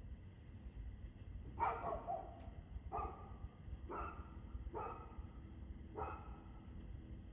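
A dog barking five times at uneven intervals of about a second, the first bark the loudest, over a steady low rumble.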